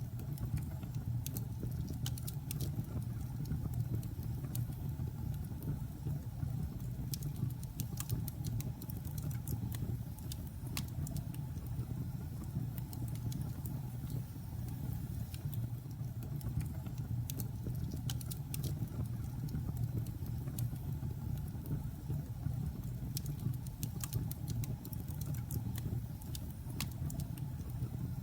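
Logs burning in a fireplace: a steady low rumble of flames with scattered sharp crackles and pops.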